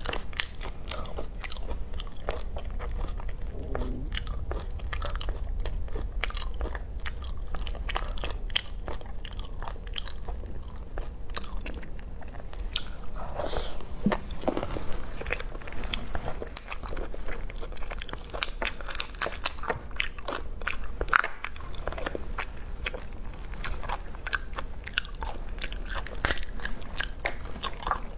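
A person biting and chewing raw marinated prawns, shell and all, with many sharp, irregular clicks throughout.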